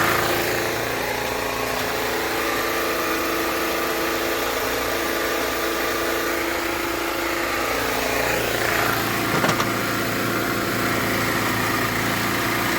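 Small engine, most likely a portable generator, running steadily at a constant speed, with a couple of faint metallic clicks about nine and a half seconds in.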